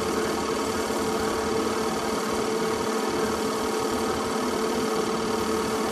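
Home-movie film projector running with a steady mechanical whirr and a constant hum.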